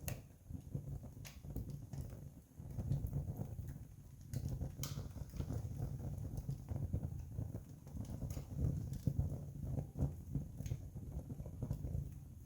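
Wood campfire crackling, with a low uneven rush underneath and scattered sharp pops, the loudest right at the start and about five seconds in.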